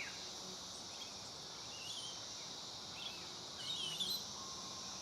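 A few short, quick bird chirps, about four, over a steady high-pitched insect drone.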